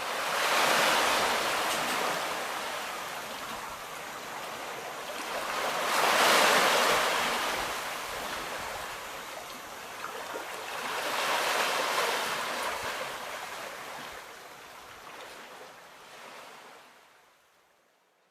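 Atlantic Ocean surf: waves breaking and washing up the shore, swelling three times about five to six seconds apart, then fading away near the end.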